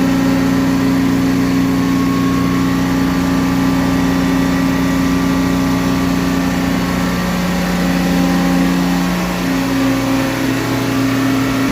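Vacuum pump running steadily while evacuating a marine air-conditioning system, a continuous machinery drone with several held low tones. A couple of the tones shift and drop out briefly about two-thirds of the way through.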